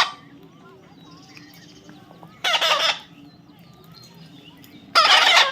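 A parrot giving two harsh, loud squawks of about half a second each, one about two and a half seconds in and the other near the end, with faint chirping between them.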